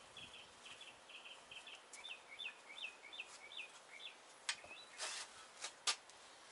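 A bird chirping faintly, a quick run of short repeated notes, about three a second. A few sharp clicks and a brief rustle of parts being handled come between four and six seconds in, the last click the loudest.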